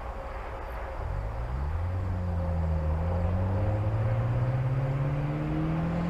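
Subaru BRZ's flat-four engine through a Magnaflow cat-back exhaust, accelerating: from about a second in, the exhaust note climbs steadily in pitch and grows louder.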